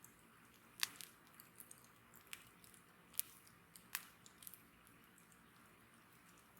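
Wood fire crackling: irregular sharp pops and snaps over a faint hiss, the loudest snap just under a second in.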